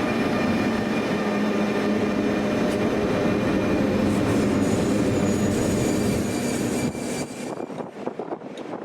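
Locomotive-hauled passenger train passing close by: a loud, steady rumble of wheels on track with a few steady whining tones above it. About seven seconds in the sound drops off suddenly as the train goes by, leaving a quieter, fluttering rumble.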